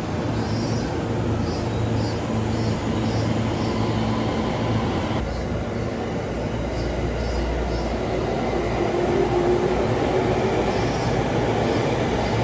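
A Shinano Railway train running along the track with a steady rumble of wheels and running gear. A brief higher tone rises out of it about nine seconds in.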